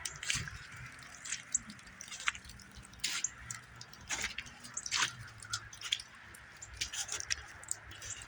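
Footsteps crunching and squeaking in packed snow, about one step a second.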